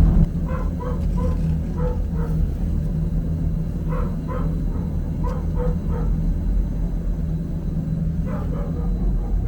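A dog barking in short, evenly pitched yips, in several quick runs, over a steady low hum.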